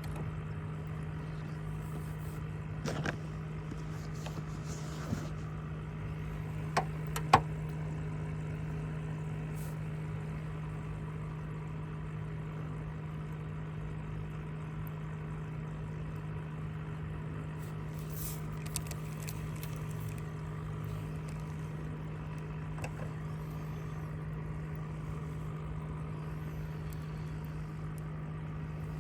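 A motor hums steadily at one low pitch, with a few sharp knocks a few seconds in and the loudest about seven seconds in.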